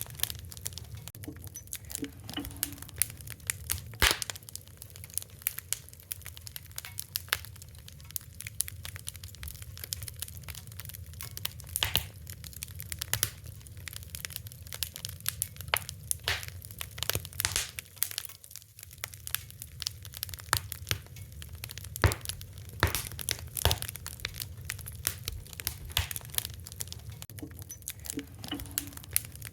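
Fire crackling, with dense irregular pops and snaps; a few are sharper and louder than the rest.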